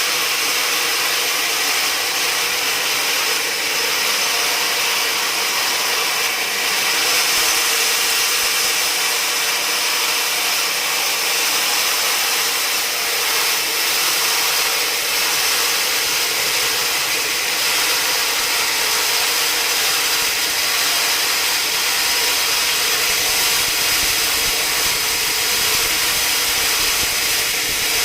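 Sawmill saw running steadily through timber: a constant high whine over a steady hum, without a break.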